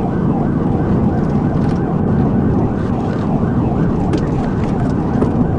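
Police cruiser's siren in rapid yelp mode, its tone sweeping up and down about three to four times a second, over heavy engine and road noise from the cruiser at pursuit speed.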